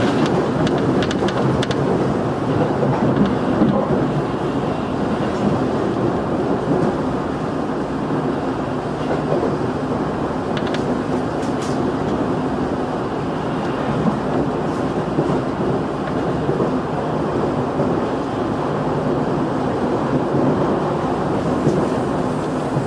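Running noise inside a JR 211 series electric train: a steady rumble of wheels on rail with a low hum, and a few light clicks.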